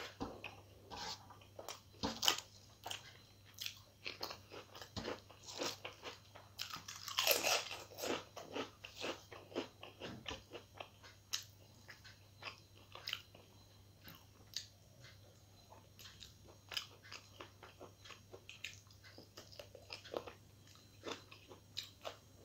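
Close-up chewing of a hand-eaten meal of rice and spicy chicken curry: many short, irregular mouth clicks, with a louder, longer stretch of chewing about seven seconds in.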